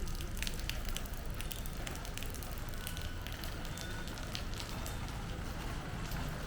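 Rain falling, with a steady hiss and many close raindrops landing as scattered, irregular ticks.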